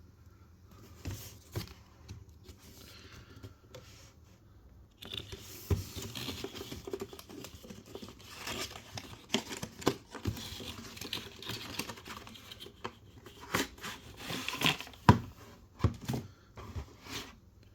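A model's retail box and its packaging being torn and crinkled open by hand, with sharp clicks and crackles of handling. There are only a few faint clicks at first; dense rustling starts about five seconds in.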